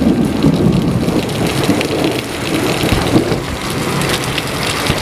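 Thunder rumbling over steady rain, the rumble loudest in the first three seconds and then dying down while the rain goes on.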